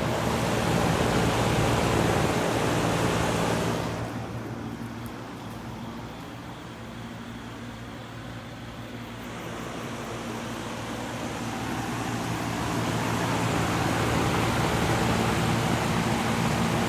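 2011 Goodman air conditioner running: a steady low hum under a rush of moving air. The air noise eases for several seconds in the middle, then builds back up.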